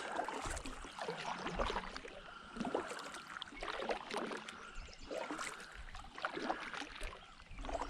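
Kayak paddle strokes: water splashing and dripping in irregular swells about once a second.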